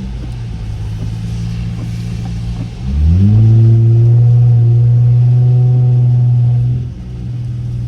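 Straight-piped car exhaust droning at a steady cruise. About three seconds in the throttle is opened hard: the pitch climbs quickly and the exhaust holds loud at high revs for about four seconds, then drops back as the driver lifts off.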